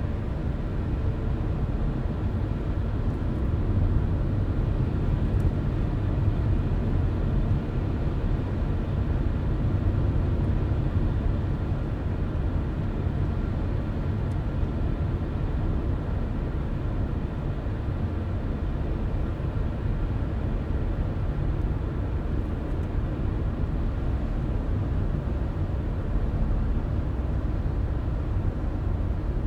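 Car driving at steady speed: a constant low rumble of tyres on the road and the engine, with no changes in pace.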